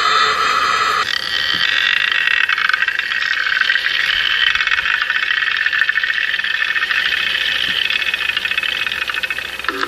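Electronic 'space sound' drone: stacked steady high tones that switch about a second in to a dense, fluttering band of many high tones, which runs on steadily.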